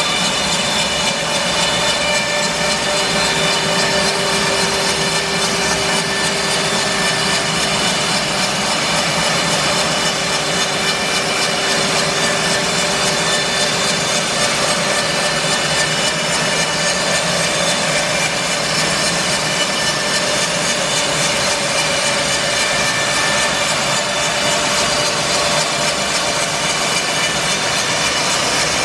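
Band sawmill running steadily with a constant machine whine, its blade cutting English larch.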